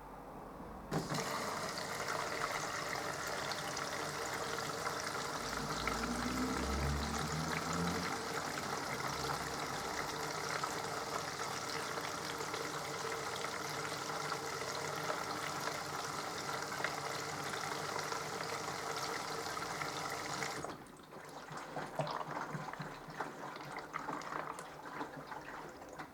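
Water rushing steadily through a mini washing machine, with a faint hum, for about twenty seconds. It stops abruptly, leaving quieter irregular trickling and dripping.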